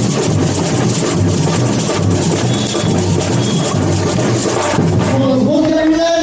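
Samba bateria playing loud and dense: bass surdo drums pounding a steady beat about twice a second under a wash of snare and small percussion. About five seconds in the drumming drops away and held voices come in.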